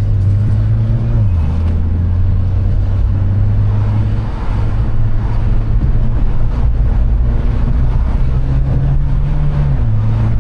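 Mitsubishi Lancer Evolution X's turbocharged 2.0-litre four-cylinder engine heard from inside the cabin while driving in sport mode, a steady drone whose pitch steps down about a second in, rises again in the middle and drops once more near the end as the revs change.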